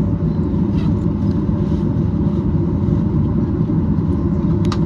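Steady low rumble of the Boeing 737-800's CFM56 jet engines heard inside the passenger cabin, with a faint steady whine above it. A short sharp click sounds near the end.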